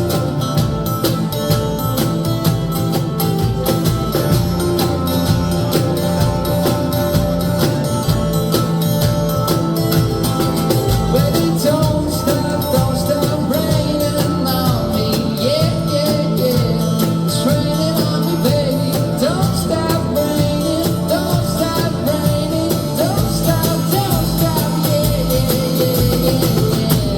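Live rock band playing, with electric guitars, bass and drums, and a lead vocal singing over them through the middle and later part.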